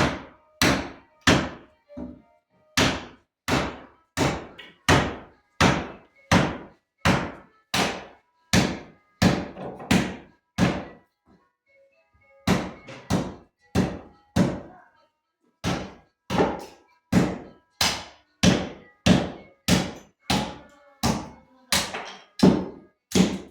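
Repeated hammer blows, about one and a half a second, each a sharp knock with a short ring, with a brief pause about halfway through.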